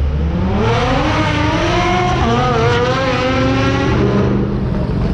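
A sports car's engine revving hard as it accelerates, its pitch climbing for about two seconds, then holding and wavering before it falls away near the end. A low traffic rumble runs underneath.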